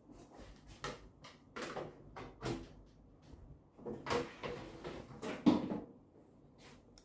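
Irregular knocks and clicks of hands handling and working on a microwave oven during repair, about a dozen separate strikes with the loudest knock about five and a half seconds in.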